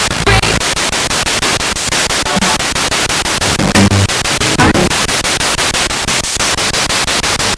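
Spirit box sweeping through radio stations: a steady loud hiss of static, chopped by the scan stepping several times a second, with brief fragments of broadcast voice or tone breaking through now and then.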